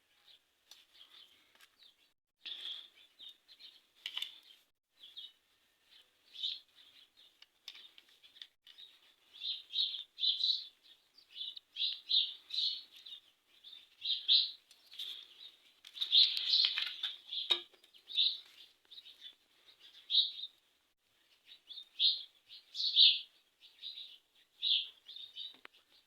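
Birds chirping over and over in short, high calls, with a few faint clicks.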